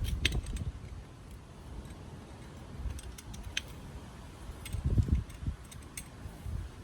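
Scattered light metallic clicks and clinks from tools and parts being handled, with a few low bumps, loudest near the start and about five seconds in.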